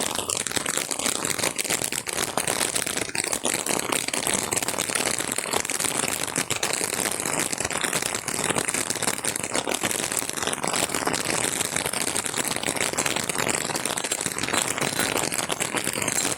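Steady heavy rain: a dense, even patter of many drops.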